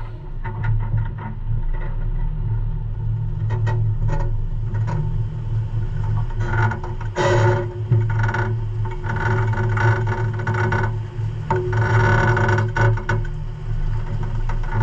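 A vehicle's engine running steadily at low revs, a constant low hum with some rougher, noisier stretches over it.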